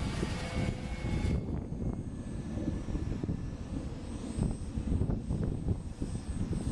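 RC model Cub airplane's motor and propeller whining at throttle, dropping away about a second in. Gusty wind rumble on the microphone follows.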